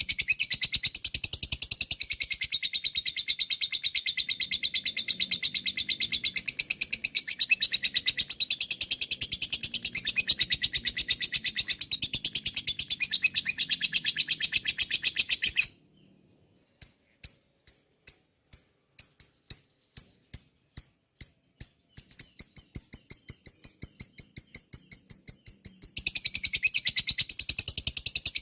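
Lovebird ngekek: a long run of rapid, high chattering chirps. It breaks off about sixteen seconds in, and after a brief pause comes a slower string of separate sharp chirps, about four a second. About twenty-two seconds in the rapid chatter starts again.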